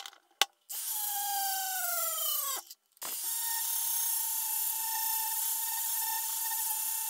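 Small electric power tool running with a steady whine. About a second in its pitch slides down as it slows, it cuts out briefly near three seconds, then it runs steadily again. A few short clicks come at the very start.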